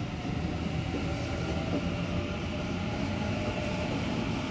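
Double-deck electric suburban train running past a station platform: a steady rumble of wheels on rail with a faint humming tone over it.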